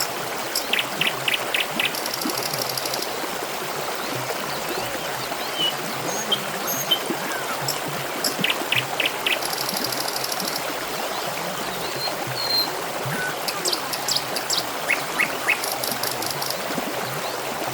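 Water trickling steadily, with birds chirping over it: several short series of about four quick notes and a few fast, high trills.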